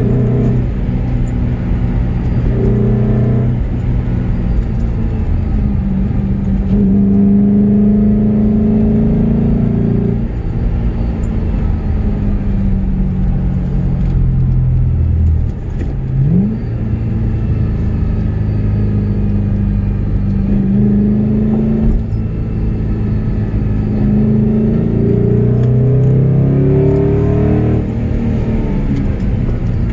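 Car engine driven hard through curves, the revs repeatedly climbing and dropping with throttle and gear changes, with a quick rev rise about halfway through.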